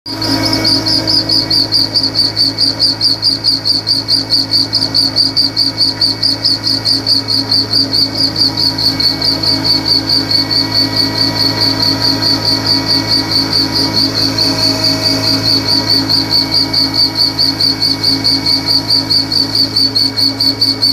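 Line boring machine running, with a steady hum under a high chirping squeak that repeats evenly about five times a second, once per turn of the boring bar.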